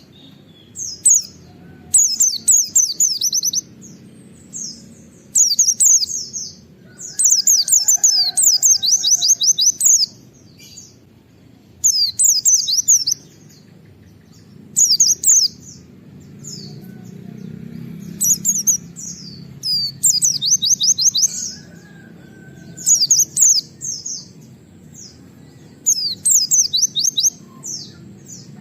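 White-eye (pleci) singing in fast 'nembak' bursts: rapid, high twittering phrases of quickly repeated notes, each lasting one to two and a half seconds, repeated about a dozen times with short pauses. A steady low background rumble runs underneath.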